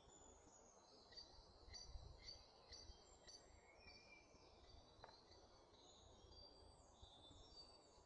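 Faint woodland birdsong from several birds, with a run of sharp repeated chirps in the first few seconds and falling whistled notes later on. A low rumble sits underneath.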